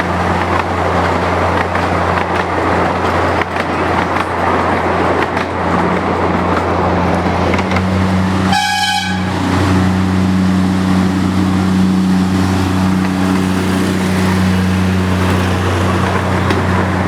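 A miniature diesel locomotive's engine runs steadily, with one short horn toot about halfway through. The engine note is a little louder after the toot.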